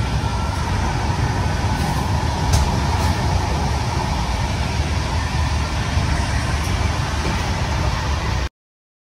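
Steady rumble and rush of a moving passenger train, with a couple of faint clicks about two and a half and three seconds in; the sound cuts off abruptly near the end.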